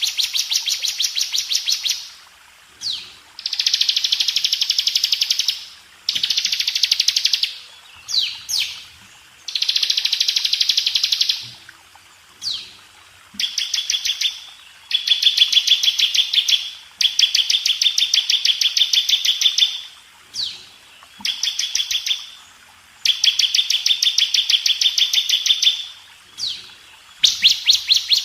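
Bar-winged prinia (ciblek) singing: repeated bouts of very rapid, evenly pulsed high trills, each one to three seconds long, broken by short pauses and quick downward-sweeping notes.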